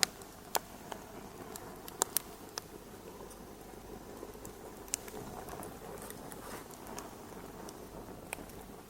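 Wood fire crackling in a fireplace: irregular sharp pops and snaps, a cluster in the first couple of seconds and a few more later, over a soft steady hiss.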